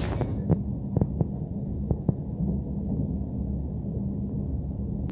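Muffled, steady low rumble of a moving passenger train heard from inside the coach, with a few sharp clicks in the first two seconds, some in close pairs.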